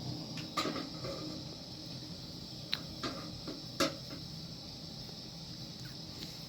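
A few short, sharp clicks and knocks over a steady background hiss. The loudest knock comes about four seconds in.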